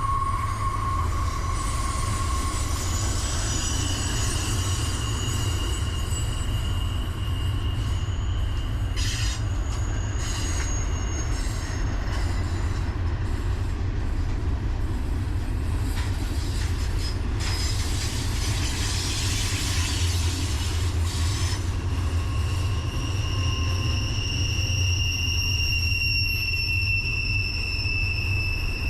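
Freight train rolling by with a steady low rumble, its wheels squealing on the rails in several thin high tones that drift slightly in pitch and come and go.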